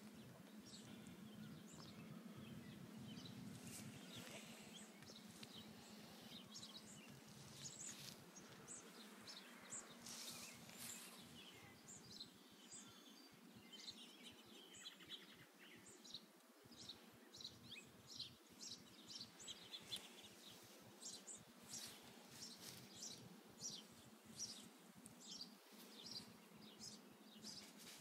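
Near silence outdoors, with faint short bird chirps repeating throughout, more frequent in the second half, over a faint low hum in the first few seconds.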